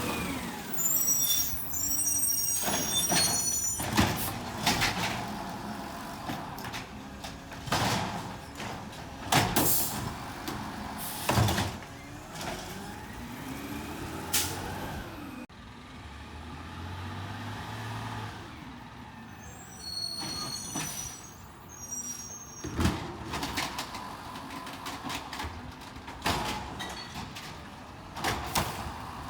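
Garbage truck at work: repeated bangs and clatters over a running engine, with high squealing about a second in and again about two-thirds of the way through.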